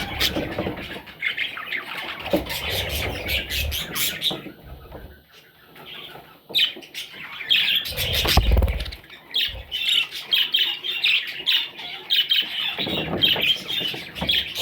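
Young budgerigars squawking and chirping in many short, raspy calls, with a brief lull about a third of the way in and a dull low thump a little past halfway.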